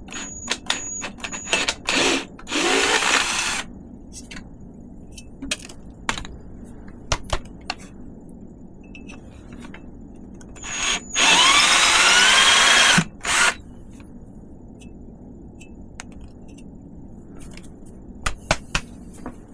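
Power drill run in two short bursts, its motor whine rising as it spins up, deburring freshly drilled holes in a metal bike frame. Sharp clicks and knocks from handling come between the bursts.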